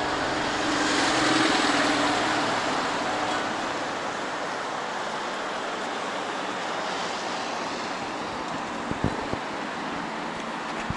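Street traffic noise: a steady wash of passing vehicles, with one swelling louder and fading in the first few seconds, and a couple of short knocks near the end.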